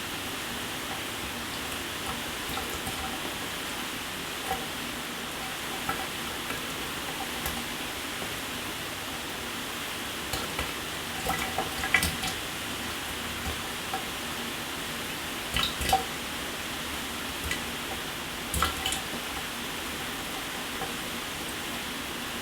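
Shower running: a steady hiss of water spray, with louder drips and splashes now and then.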